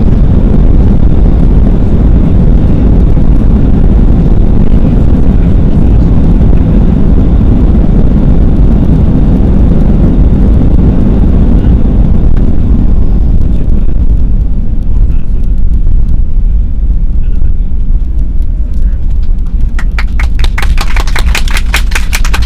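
Airbus A320 cabin during the landing rollout: a loud, deep roar of the engines and wheels on the runway that eases off about two-thirds of the way through as the aircraft slows. Near the end, a rapid run of evenly spaced clicks or knocks starts.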